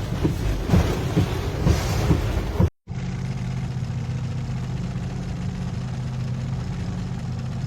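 Strong storm wind buffeting the microphone in uneven gusts. About three seconds in it cuts off suddenly, and a vehicle engine takes over, running with a steady low hum.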